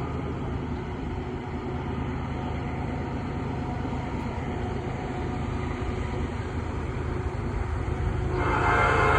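Freight train's diesel locomotives rumbling steadily, with the locomotive air horn sounding again about eight seconds in.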